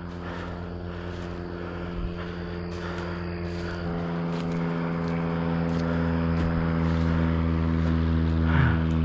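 An engine drones at a steady pitch, growing louder from about four seconds in.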